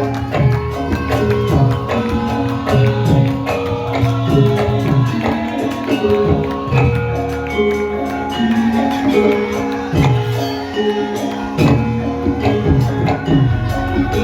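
Javanese gamelan music accompanying Lengger dance: ringing metallophone notes over a rhythmic pattern of hand-drum strokes, several of them bending down in pitch.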